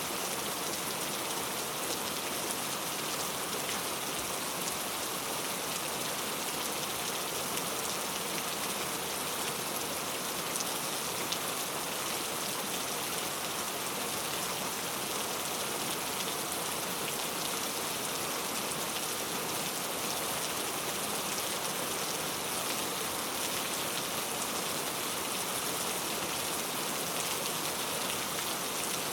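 Steady rain falling, an even hiss with scattered drop patter, unchanging in strength.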